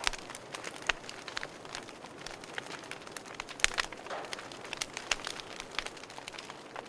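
Wood fire crackling in a fireplace: a steady hiss of burning with frequent irregular sharp pops and snaps, a few louder ones standing out.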